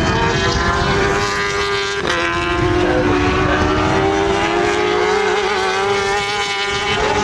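Racing motorcycle engines running at high revs on the circuit, several bikes at once, with a drop in pitch about two seconds in as one passes.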